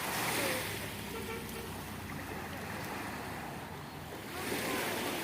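Steady rushing of waves and surf, with wind noise on the microphone.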